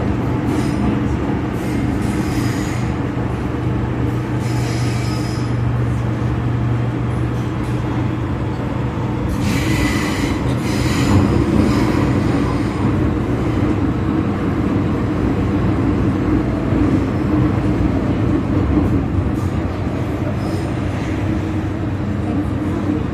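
MTR Kwun Tong Line M-Train running between stations: a steady low rumble of wheels and traction motors, with short bursts of wheel squeal, the longest about ten seconds in.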